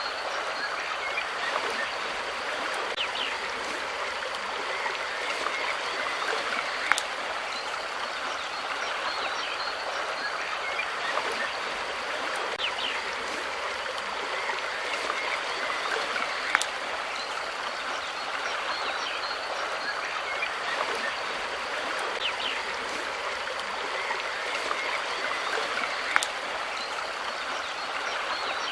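Steady flowing water, like a stream. Short high chirps come through now and then, and a sharp click sounds about every ten seconds.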